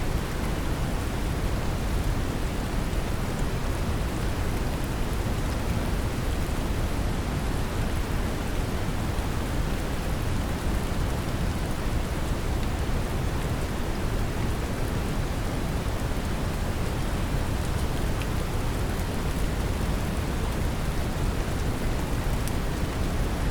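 Steady brown noise, a deep even hiss weighted toward the low end, mixed with the patter of gentle rain, its scattered drop ticks faint on top.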